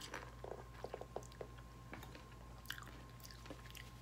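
Faint biting and chewing of a raw lemon with its peel on: a few soft, crunchy clicks in the first second and a half, then quieter chewing.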